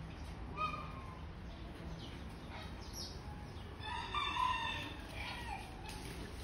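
Birds calling: a short call about half a second in, a few fainter calls around the middle, and a louder drawn-out call lasting about a second a little after the middle.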